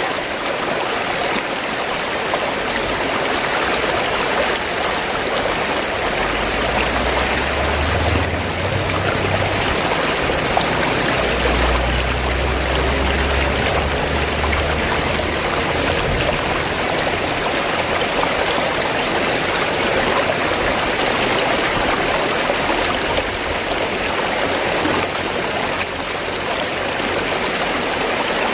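Fast-flowing stream water rushing and gurgling steadily.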